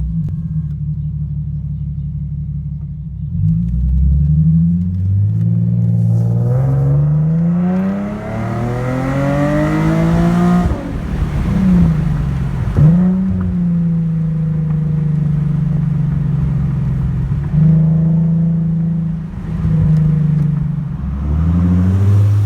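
Infiniti G37 sedan's 3.7-litre V6 through a true dual 2.5-inch cat-back exhaust with high-flow cats, X-pipe and resonators, idling and then being revved in place. After a few seconds of idle it climbs in one long rev that peaks about ten seconds in and drops back sharply, followed by a quick blip and several shorter revs near the end.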